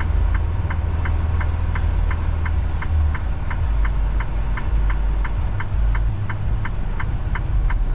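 Semi-truck diesel engine running low and steady in the cab, with a regular light clicking about three times a second over it.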